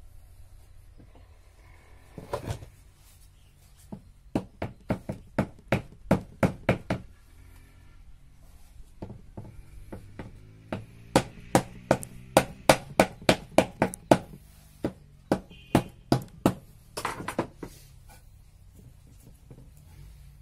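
Hammer driving nails into pallet-wood boards of a wooden beehive box: runs of sharp blows, about three a second, with short pauses between the runs.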